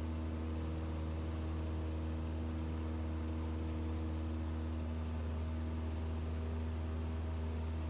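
Cessna 172's piston engine and propeller droning steadily in the climb just after takeoff, heard in the cabin through the intercom audio: an even low hum with steady tones above it and a layer of hiss.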